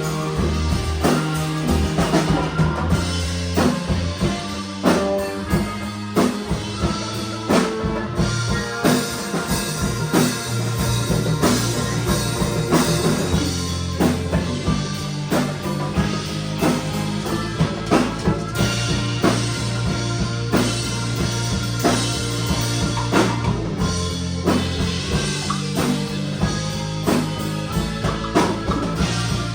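Rock band playing live: drum kit with a steady beat and bass drum, bass notes and guitar.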